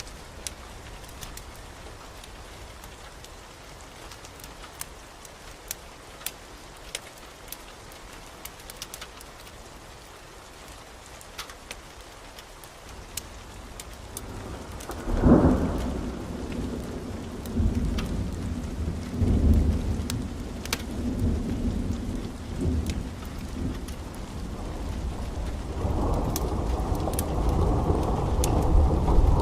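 Steady rain with scattered sharp ticks. From about halfway, thunder rumbles in a few rolling swells, and near the end the rain grows heavier and louder.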